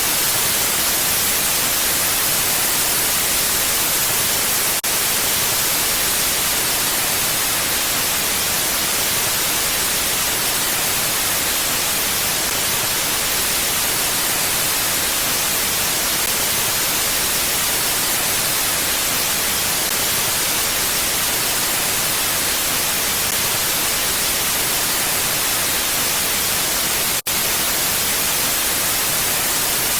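Steady mountain wind, a bright, even hiss without gusts. It drops out for an instant twice, about five seconds in and near the end.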